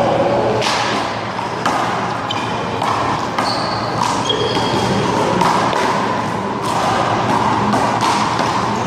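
Small rubber handball being struck by hand and slapping off the wall and pavement during a one-wall handball rally: repeated sharp smacks at irregular intervals.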